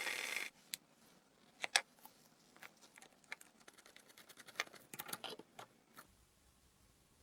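A whirring power tool stops about half a second in. It is followed by faint, scattered light clicks and taps of small metal handling, most likely the restored scissors being handled.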